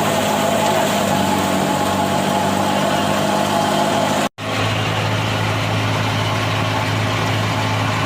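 Large farm-machine engine running steadily. The sound cuts out for an instant about four seconds in and comes back with a deeper, stronger hum.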